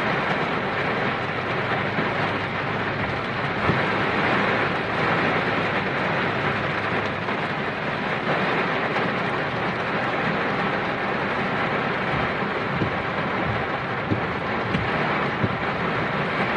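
Heavy rain pouring down in gusty wind, a loud, steady rush, with a few sharper taps of drops striking close by.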